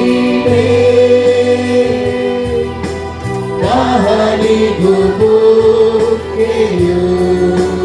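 A group singing a slow Kannada Christian worship song with held notes, over a steady bass line and a soft beat.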